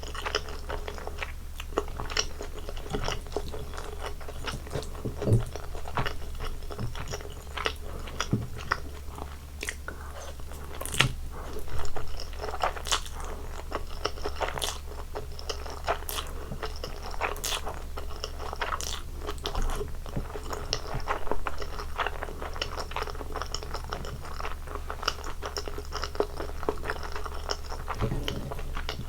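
Close-miked eating sounds: a person chewing and biting food, with irregular crisp crunches and wet mouth clicks.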